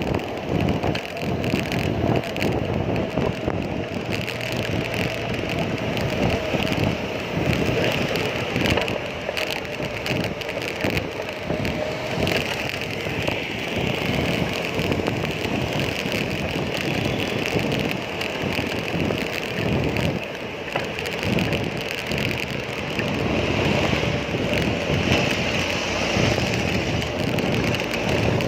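Wind rumbling and buffeting on the microphone while riding a bicycle, over a steady wash of road traffic.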